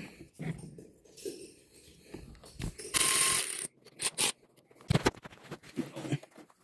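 Metal tools and engine parts clinking and clattering as they are handled during small-engine work, with a short burst of rushing noise about three seconds in.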